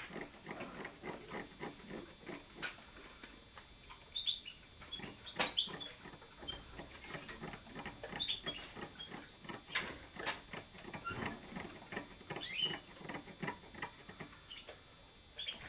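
Caged canaries and a young nightingale giving short, high chirps every few seconds over a steady run of small clicks and taps.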